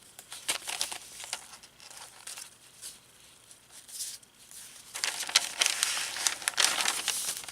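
Paper crinkling and rustling as the pages and tucked-in inserts of a handmade paper journal are handled and turned. Light scattered rustles at first, growing louder and denser about five seconds in.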